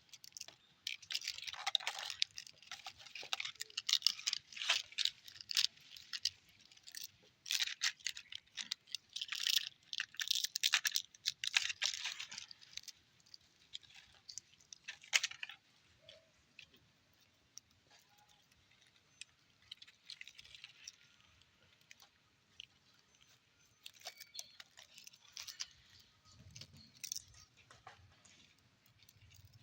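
Puppies chewing and crunching: irregular bursts of crackly clicks, dense for about the first half, then sparse and faint.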